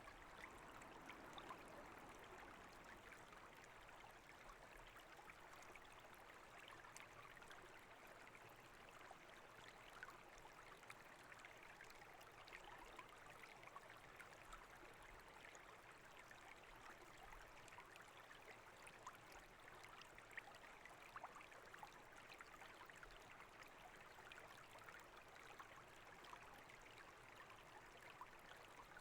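Small brook babbling steadily and faintly, water running over stones with many tiny splashes and trickles.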